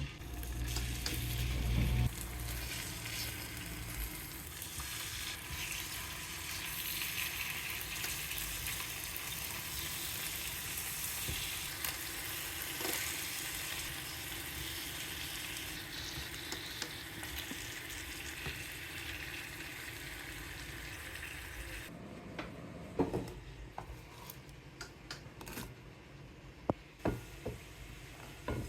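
Food sizzling as it fries in a pan, a steady hiss with a few low knocks in the first couple of seconds. The sizzle cuts off suddenly near the end, followed by scattered clicks and knocks.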